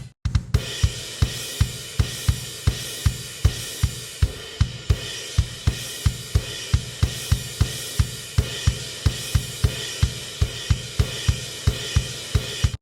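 Drum-kit music: a steady beat of kick-drum hits, a little over two a second, under a continuous cymbal and hi-hat wash.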